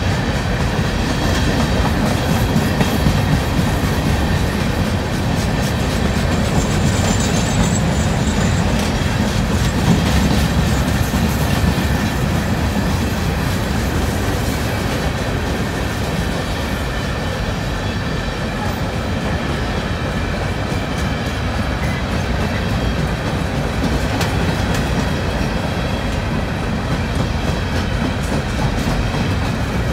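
Hopper cars of a Herzog ballast train rolling steadily past: a continuous rumble of steel wheels on rail, with a clicking over the rail joints.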